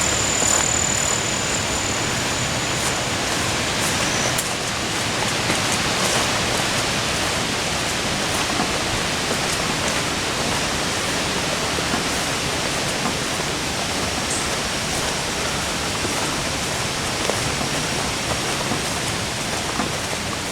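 Steady hiss of water, rain or running water, with scattered faint ticks like drops landing. A faint high whistle at the start fades out within about two seconds.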